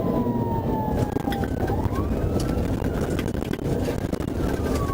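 Police siren wailing in slow rising and falling sweeps, over heavy engine and road noise during a high-speed pursuit.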